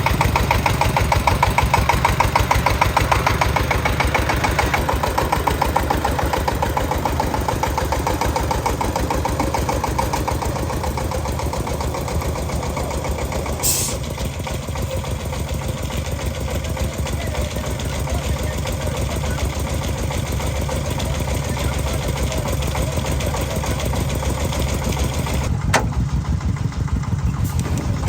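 Tractor engine running steadily with a fast, even chugging, a little louder and busier for the first few seconds before settling. A couple of short sharp clicks cut through it, one about halfway and one near the end.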